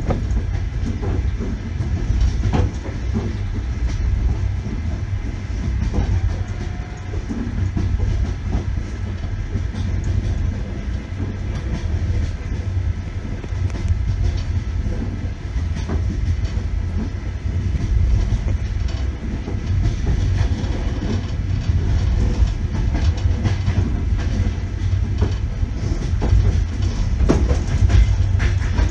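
Russian Railways passenger train carriage running along the track: a steady low rumble with the clack of the wheels over rail joints, a sharp click now and then at irregular intervals.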